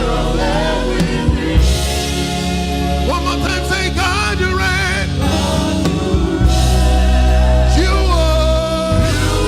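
Gospel choir singing with a live band: voices over a steady bass and drums.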